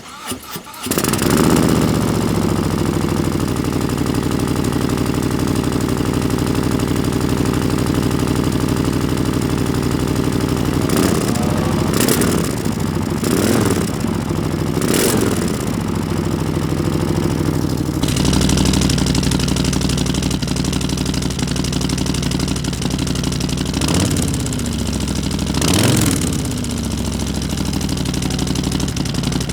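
Harley-Davidson Milwaukee-Eight V-twin starting up about a second in and idling, with short throttle blips four times around the middle and twice near the end. About two-thirds of the way through the exhaust note changes, fuller and deeper.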